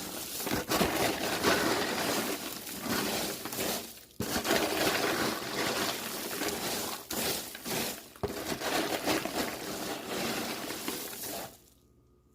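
Popped popcorn being tossed and stirred in a bowl to coat it with melted almond bark, a crunchy rattling rustle in several bouts with brief pauses, stopping shortly before the end.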